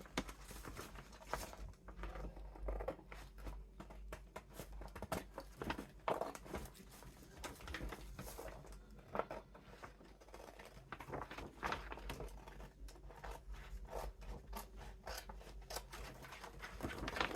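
Scissors snipping through a gift bag: an irregular run of short cuts.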